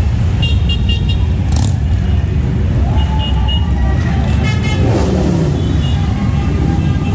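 A parade of motorcycles rumbling past in a steady low drone, with short repeated horn toots over the engines.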